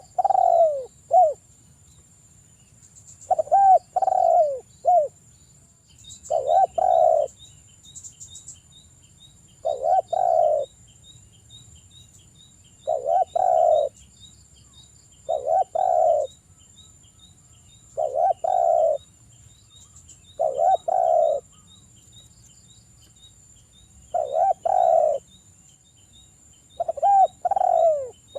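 Derkuku dove cooing: a short phrase of low coos repeated about every two and a half to three seconds, ten phrases in all, the loud 'gacor' calling played to lure another derkuku to call.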